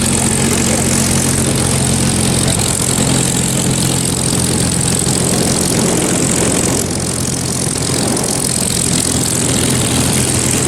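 P-51 Mustang's V12 piston engine running steadily at a low taxiing idle, its propeller turning, with a constant even drone.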